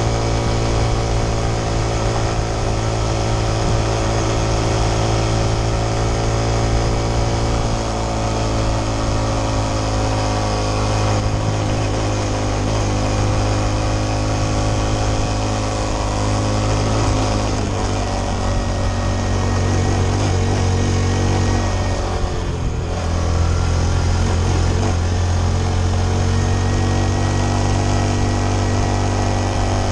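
Honda CT125 Trail 125's single-cylinder four-stroke engine running steadily under way. Its pitch eases a little in the middle and wavers for a few seconds before settling steady again near the end.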